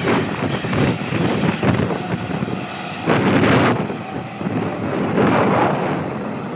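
Jet airliner engine noise from an aircraft at the airport, its high-pitched part fading about two thirds of the way in, mixed with wind buffeting the microphone in gusts.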